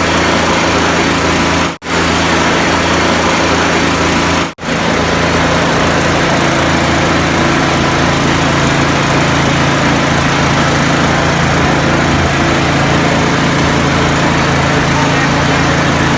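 A small engine running steadily at an even speed. The sound cuts out for a moment twice in the first five seconds.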